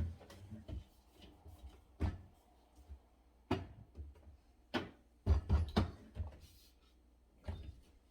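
Food containers, jars and bottles being set down and moved about on refrigerator shelves: a series of irregular knocks and clunks, with a quick cluster of them a little past the middle.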